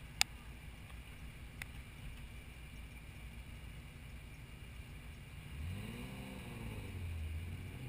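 Car engine running with a low rumble, a sharp click just after the start; about five and a half seconds in the engine revs up and drops back, then holds a steady tone.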